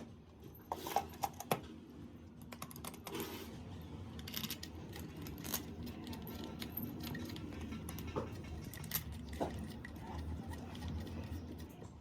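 Small metal parts clinking and tapping as they are handled, with a few louder clicks about a second in, over a low steady hum.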